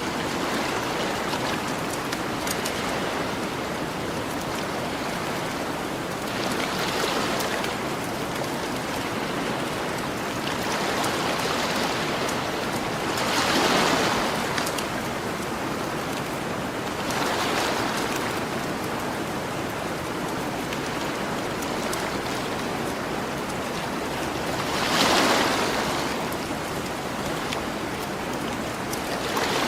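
Ocean waves washing onto the shore, a steady surf hiss that swells and fades every few seconds, with the biggest waves about 13 and 25 seconds in. Small campfire crackles tick faintly throughout.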